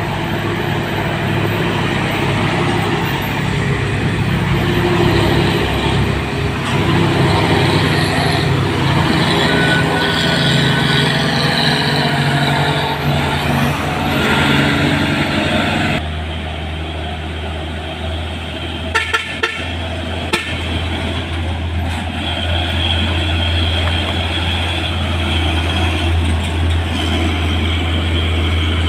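Heavy diesel truck engines pulling up a steep climb, running hard and loud. About halfway through, the sound changes abruptly to a steadier, deeper engine drone, with a few sharp knocks a few seconds later.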